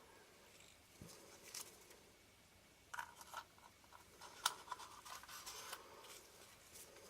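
Faint clicks and light scraping of small lens parts being handled and fitted, likely the spacers going into the lens barrel. A few scattered ticks, then a busier run of clicks and rubbing about four and a half to six seconds in.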